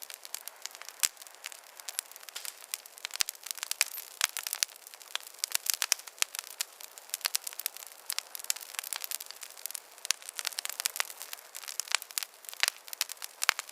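Campfire crackling: a dense, irregular run of sharp snaps and pops over a steady hiss, with almost no low rumble.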